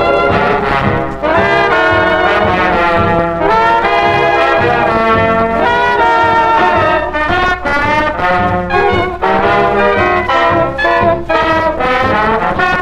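Swing band music with trumpets and trombones playing, with a steady low hum underneath.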